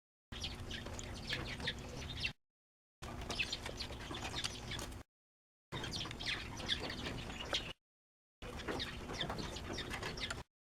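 Birds chirping, with a low steady hum, in a series of short clips of about two seconds each, separated by abrupt cuts to silence.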